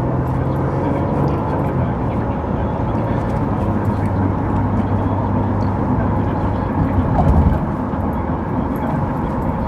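Steady road and engine noise inside a moving car, with a brief louder swell about seven seconds in.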